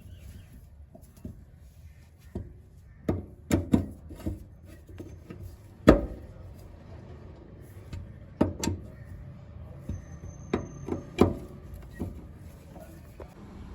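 Irregular knocks, clicks and clunks of hand work with tools and parts, loudest a little before the halfway point, over a low steady hum.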